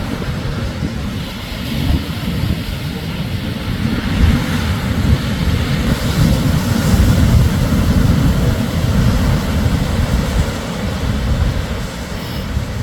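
Shorebreak surf: waves breaking and washing up the beach as a continuous low rumble with a hiss above it, swelling to its loudest about six to eight seconds in.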